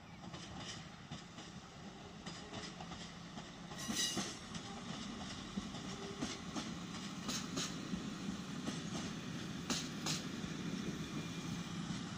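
A regional multiple-unit passenger train rolling slowly through the station with a steady low drone. Its wheels click now and then over rail joints and points, most sharply about four seconds in and again near ten seconds.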